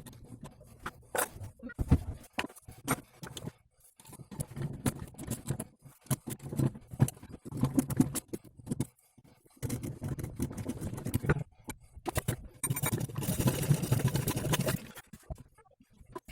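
Hand tools and metal parts clicking, knocking and scraping during work on a car's front propeller shaft and its universal joint. About thirteen seconds in comes a longer rasping stretch lasting about two seconds.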